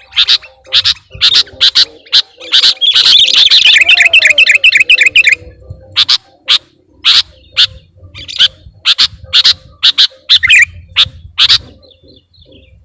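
Sooty-headed bulbul (kutilang) singing loudly in sharp, high chirps: a fast rapid-fire run of notes about three seconds in, then single chirps spaced roughly half a second apart, stopping shortly before the end.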